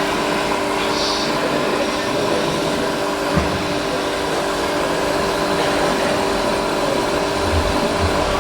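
Steady hum of small electric motors and hydraulic pumps from RC scale construction machines at work, holding several constant whining tones. A single light knock about three and a half seconds in.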